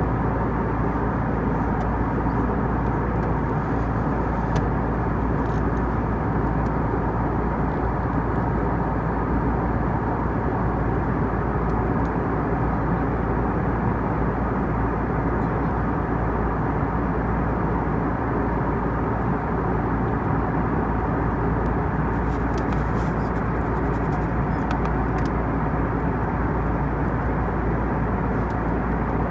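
Airbus A320 cabin noise in flight: a steady, unchanging rush of airflow and engine drone.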